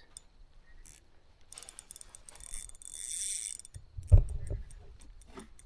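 Fishing reel being cranked in, a fast run of fine mechanical clicking and whirring for about two seconds. About four seconds in there is a single loud low thump.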